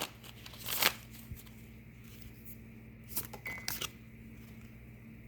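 Tarot cards being handled: a short rustle and slide of cards just before one second in, and another flurry of card flicks and taps a little after three seconds.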